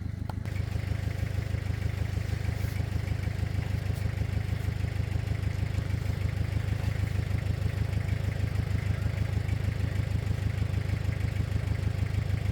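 A motor vehicle's engine running steadily with an even pulsing beat, picking up a little about half a second in.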